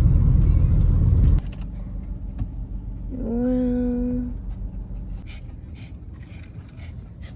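Car road and engine rumble heard from inside the cabin, dropping sharply to a quieter rumble about a second and a half in. About three seconds in comes a single held, steady pitched sound lasting about a second.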